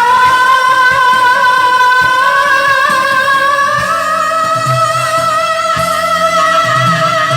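A song with one long held sung note with vibrato, drifting slowly upward in pitch, over instrumental accompaniment.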